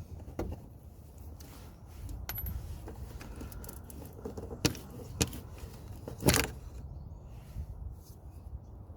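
Scattered metallic clicks and light clinks of hand tools and small metal parts being handled, with a few sharper knocks about halfway through, over a low steady hum.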